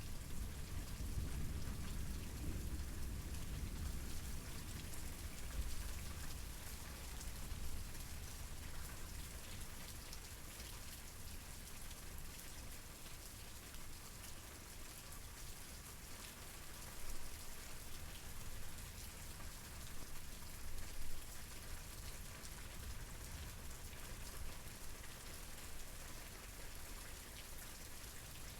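Steady rain falling, an even hiss of drops on surfaces. A low rumble underneath fades away over the first several seconds.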